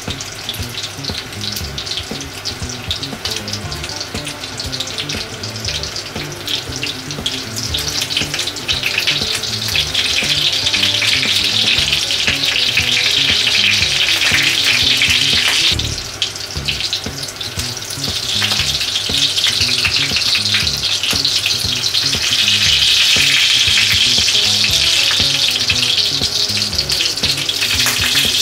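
Breaded pork cutlets coated in okara powder and crumbled koya tofu shallow-frying in oil in a cast-iron skillet: a steady, crackling sizzle that grows louder about a third of the way in and dips briefly a little past the middle.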